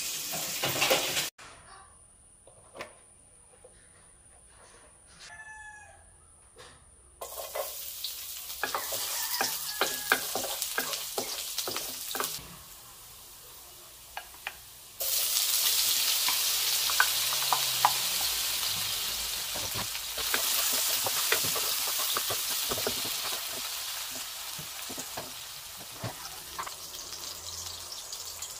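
Oil sizzling in a wok as chopped garlic fries, growing louder about halfway through when sliced sausages are tipped in, with scattered clicks of stirring. Before the frying starts, a rooster crows faintly in the background.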